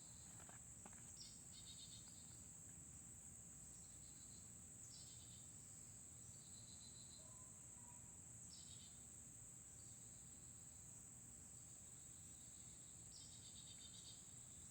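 Near silence, with a steady high-pitched insect drone and a few faint chirps every few seconds.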